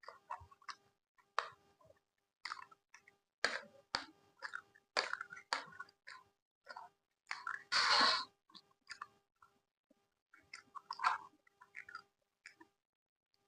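Close-miked chewing of Indian food, with irregular wet mouth clicks and smacks. About eight seconds in comes one louder noise lasting nearly a second.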